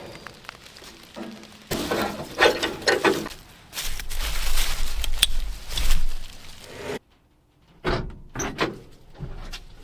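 A string of short, abruptly cut clips of knocks, clunks and scraping from hands-on work on an old car, with a brief silent gap about seven seconds in.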